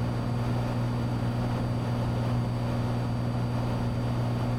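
Cessna 182T's Lycoming IO-540 six-cylinder engine and propeller droning steadily in flight, heard from inside the cabin as an even low hum.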